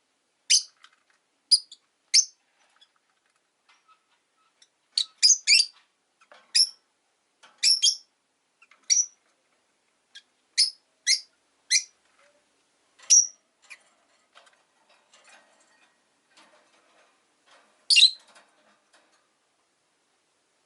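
Rosy-faced lovebirds (Agapornis roseicollis) giving short, sharp, high-pitched chirps at irregular intervals, now single, now two or three in quick succession, with quiet gaps between.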